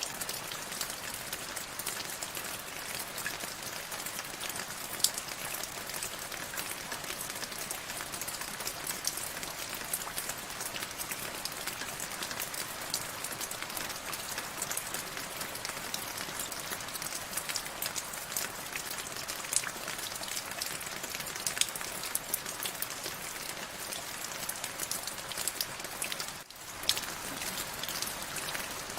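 Steady rain: a constant hiss of falling rain with many individual drops ticking sharply on top. The sound dips briefly near the end.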